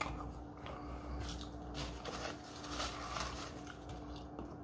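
Quiet chewing of a mouthful of poutine, with a few soft clicks and rustles from a plastic fork and paper food packaging.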